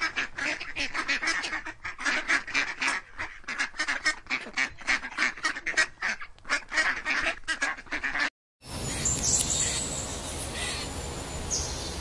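Waterfowl calling in rapid, repeated honks or quacks, several a second, for about eight seconds. It cuts off abruptly, and after a brief silence a different recording begins: steady background noise with a few thin, high bird chirps.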